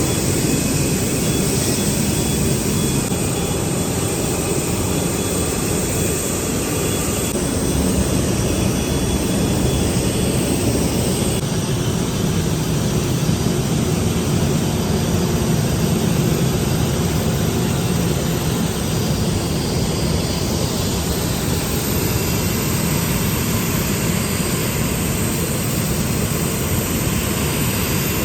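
The four jet engines of an Emirates Airbus A380 running, a steady loud noise weighted toward the low end, with the higher hiss dropping away about eleven seconds in.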